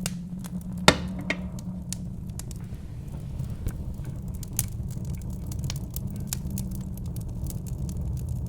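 Wood fire crackling, with scattered sharp pops and the loudest crack about a second in, over a steady low rumble of wind.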